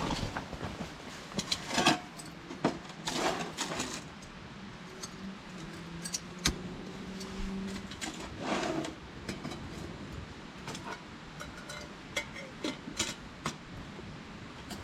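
Irregular light clicks and metallic clinks, with a few short rustling swells, as small things are handled.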